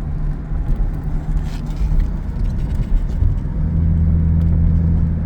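1985 Jaguar XJS engine running under way in fourth gear, a steady low hum with road noise, heard from inside the cabin; the engine note grows louder about three and a half seconds in.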